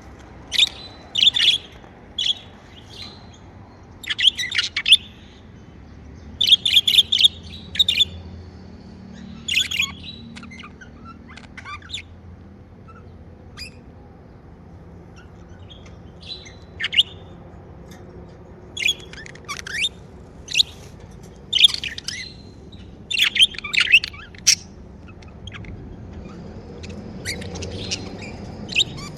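Pet budgerigars chirping in short, irregular bursts of sharp, high chirps, with a couple of quieter pauses between the bursts.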